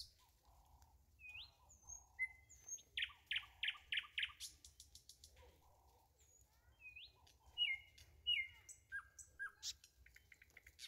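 A bird calling: a string of short chirps and quick upward-flicking notes, including a fast run of about five notes about three seconds in, with softer lower notes in between.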